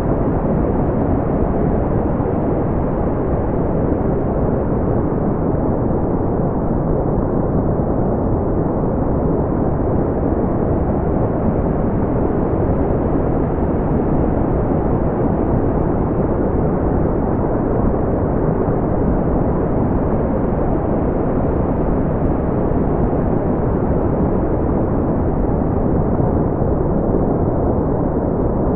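Generated brown noise: a steady, deep rumbling hiss, its sound concentrated in the low range with nothing high, unchanging throughout.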